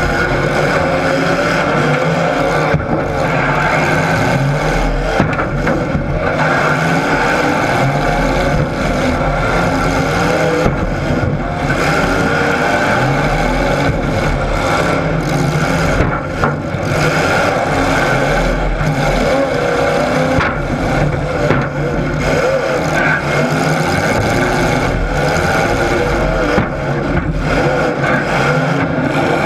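Several vehicle engines running loud and revving without a break, with a few short knocks among them.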